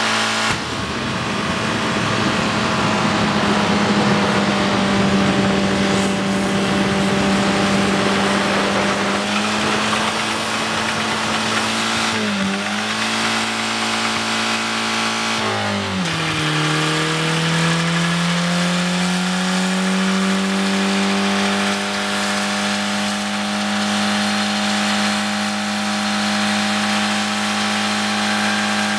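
Mazda 626 engine held at high revs through a burnout, its drive wheels spinning under a constant hiss. The revs dip briefly about twelve seconds in, then drop further a few seconds later and climb slowly back up to a steady high pitch.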